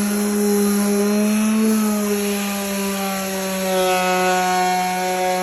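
Electric sander running steadily against wood, with a strong hum and higher tones that waver slightly in pitch as it is pressed on.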